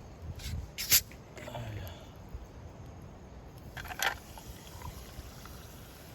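A bottle of sparkling water being opened and poured into a drink: a short sharp hiss about a second in, another brief burst around four seconds in, and faint handling sounds between.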